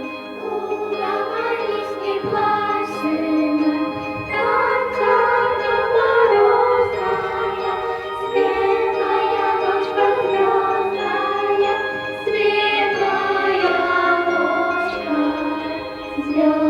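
A children's choir singing in unison to an instrumental accompaniment with light chiming percussion.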